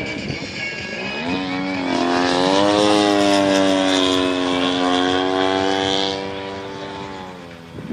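Propeller-driven gas engine of a large-scale RC aerobatic plane, a 35% Extra 300 with a DA120 two-stroke twin, running in flight. Its note rises about a second and a half in, holds steady and loud for a few seconds, then drops in pitch and fades from about six seconds on.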